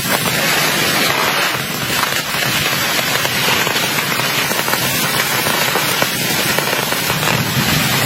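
Heavy rain: a dense, steady crackling patter of drops.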